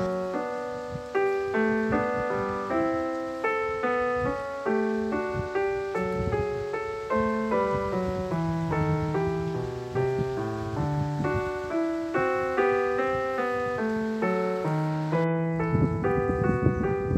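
Background piano music: a gentle run of single struck notes, each fading, in a steady flowing melody.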